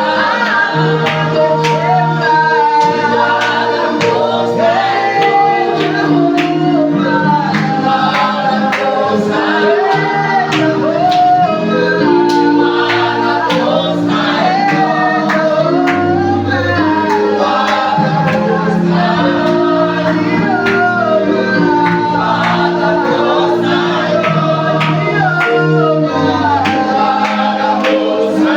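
Gospel praise-and-worship music: a praise team of men and women singing together over a band with bass and a steady drum beat.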